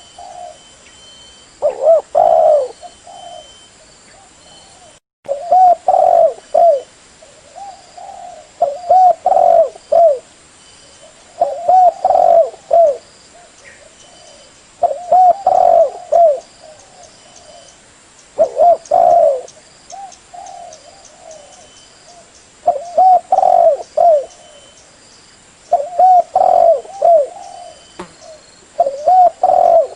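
Spotted dove (terkukur) cooing: a phrase of a few low, rounded coos repeated about every three seconds.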